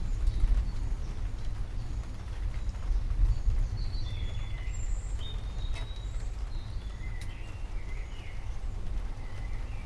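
Small birds chirping and twittering in short gliding calls, over a steady low rumble that swells a little a few times.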